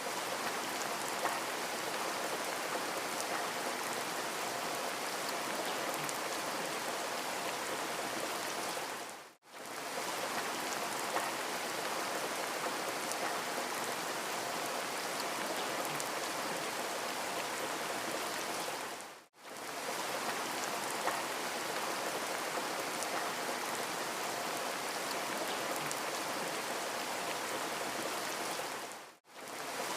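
Steady rain falling, an even hiss with faint scattered drop ticks. It drops out briefly to silence three times, about ten seconds apart.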